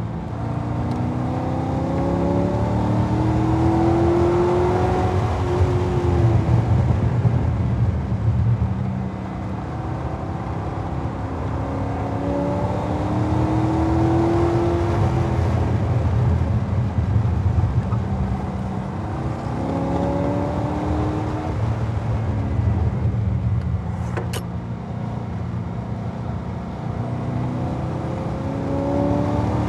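Chevrolet Corvette Z06's 7.0-litre LS7 V8 under hard acceleration, its pitch climbing and dropping several times as it pulls out of corners, over steady wind and road rush. A single sharp tick about 24 seconds in.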